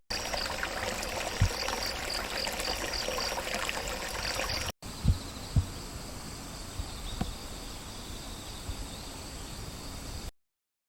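Outdoor ambience of insects singing: a steady high-pitched trill with a rhythmic chirp about three times a second over a background hiss, briefly cut off just before halfway, with a few faint low thumps.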